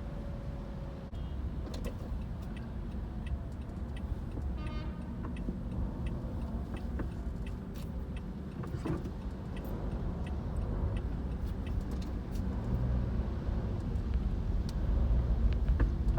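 Steady low rumble of vehicle engines and road traffic, growing louder near the end, with scattered light clicks and a brief pitched tone about five seconds in.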